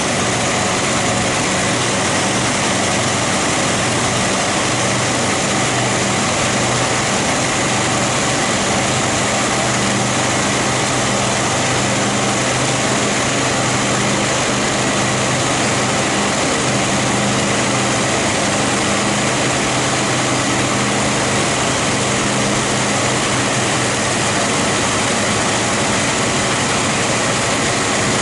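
Mercedes-Benz 450SL's 4.5-litre V8 engine running steadily, with no revving.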